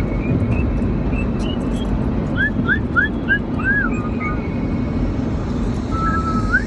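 Dogs whining in a series of short, high-pitched rising and falling cries over the steady rumble of a car driving.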